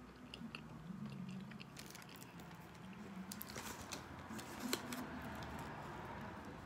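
Close-up eating sounds: chewing with wet mouth clicks and smacks, and scattered crinkles of a paper burger wrapper as the burger is handled.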